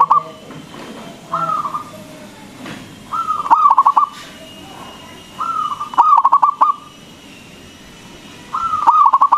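Zebra dove (local perkutut) cooing in full song. Four phrases come about every two to three seconds, each a drawn-out opening note followed by a quick rolling run of short coos.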